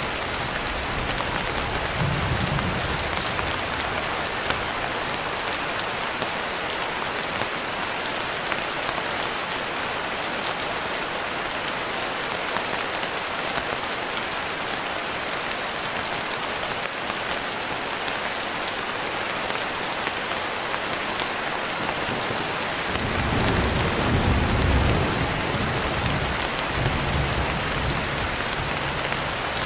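Steady rain falling in an even hiss. A low rumble of thunder comes in about three-quarters of the way through, swelling briefly and then rolling on under the rain.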